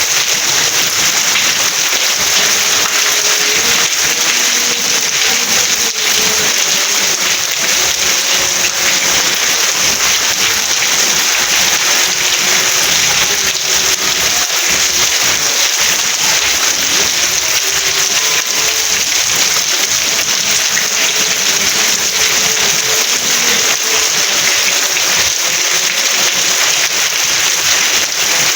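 Steady rain, a dense even hiss with no let-up. Faint soft tones drift beneath it.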